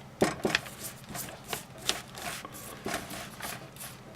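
Irregular short scratching strokes, a few to the second, as hot floor wax is worked into a small stone sculpture.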